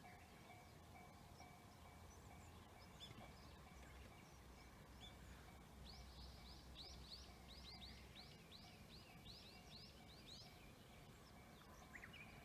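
Faint bird song in quiet countryside: a rapid run of about a dozen short, high, descending notes about halfway through, with a few single chirps before and after.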